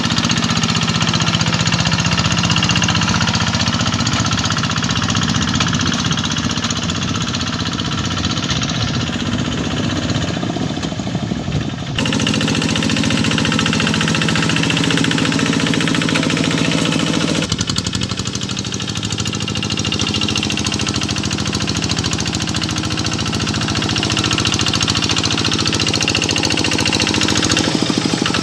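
Small rice-field tractor's engine running steadily while pulling a harrow, with a rapid knocking beat of firing strokes. The sound changes abruptly twice, about twelve and about seventeen seconds in.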